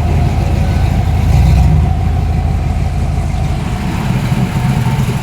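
Chevrolet Camaro's engine rumbling at low revs as it rolls in, sounding tough, with a brief swell in loudness about a second in.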